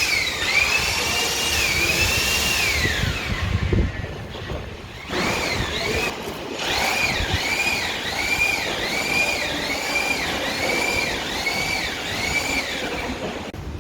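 Cordless power drill or screwdriver whining as it drives screws. It runs steadily, then winds down. After a short pause it starts again in quick pulses that rise and fall about one and a half times a second as the trigger is worked.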